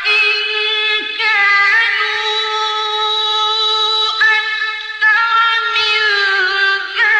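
A single high voice chanting Qur'anic recitation in long, drawn-out notes, with ornamented pitch turns between the held notes.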